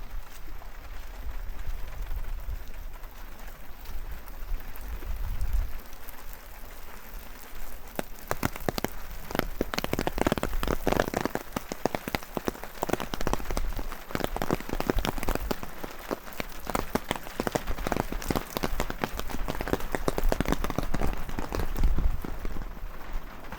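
Rain falling, with a dense patter of large drops that grows busier about a third of the way in, over a low rumble of wind.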